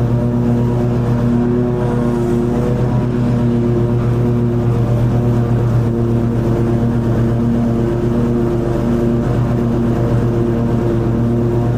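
Toro TimeCutter 50-inch zero-turn riding mower running steadily while cutting long grass, its engine a continuous drone with slight swells in tone as the load shifts.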